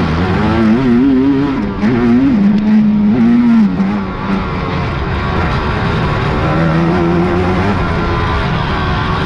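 Big-bore racing quad (ATV) engines revving, their pitch rising and falling, loudest in the first four seconds, then settling into a steadier drone.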